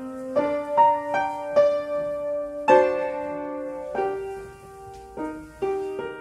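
Piano accompaniment for a ballet barre exercise: a slow, even run of chords and single notes, each struck and left ringing until the next.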